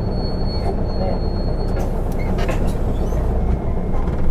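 Cabin noise of an Isuzu Erga city bus (type PKG-LV234N2): a steady low diesel engine rumble, with a thin high tone over the first couple of seconds and a few light clicks.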